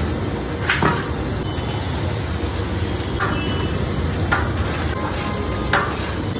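Spice masala frying and sizzling in a large metal curry pot as a long ladle stirs it, with a few sharp scrapes and knocks of the ladle against the pot.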